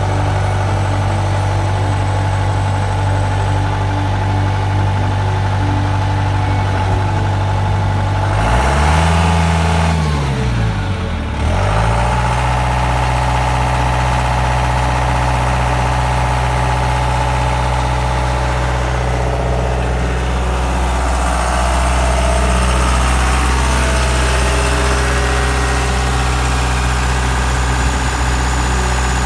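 John Deere tractor engine idling steadily. About nine seconds in it is revved up once and drops back to idle.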